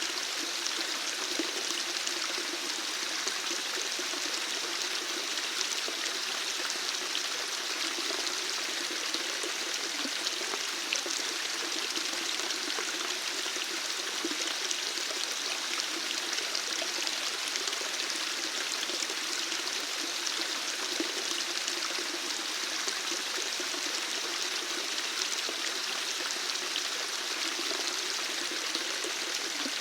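Water flowing steadily, an even rushing sound with small splashes and trickles.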